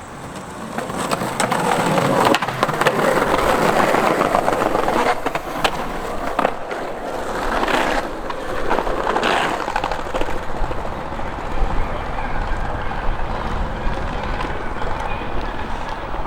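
Skateboard wheels rolling on pavement, the rolling noise swelling over the first couple of seconds, with a few sharp clacks of the board.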